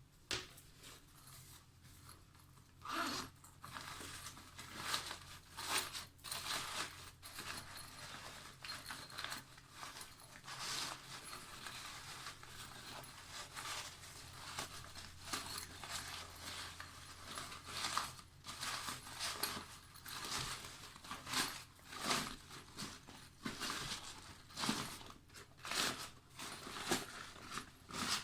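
Bags and pouches being handled, with irregular rustling and crinkling that comes and goes over a faint low hum.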